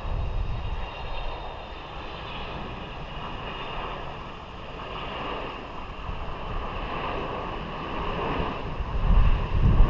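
Jet noise from an arriving Philippine Airlines Boeing 777, a steady rush with a faint high engine whine, with wind buffeting the microphone, gusting harder near the end.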